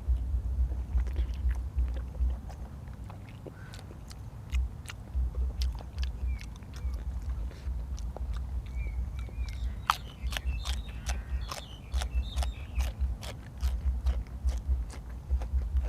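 Close-miked chewing: a person eating stewed pork head and vegetables, with wet mouth clicks and smacks over a pulsing low thud of the jaw working. The chewing eases off for a moment a few seconds in, then picks up again.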